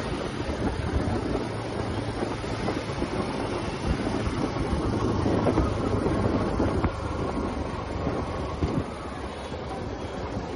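TVS Apache RTR 180's single-cylinder engine running under way, mixed with steady wind and road noise as the motorcycle is ridden.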